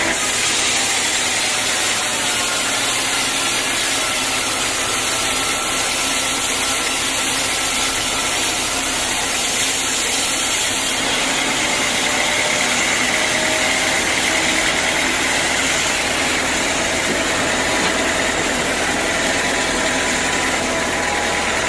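Sawmill machinery running steadily: a constant loud, even noise with a faint whine through it.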